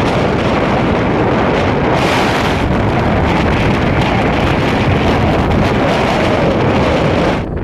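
Strong sandstorm wind blowing hard across the microphone: a loud, steady rush and rumble of wind noise, easing a little near the end.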